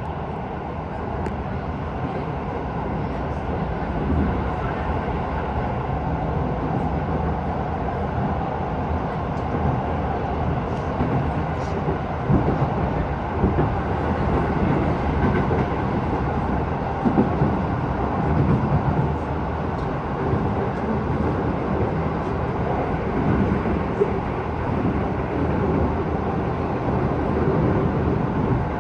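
Keisei 3000 series electric train running between stations, heard from inside the car: a steady rumble of wheels on rails with a few scattered clicks.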